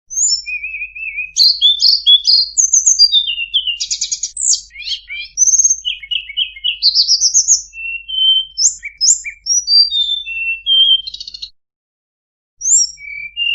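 A tledekan gunung songbird singing a fast, varied song of whistled notes, chirps and trills, briefly stopping for about a second near the end before starting again.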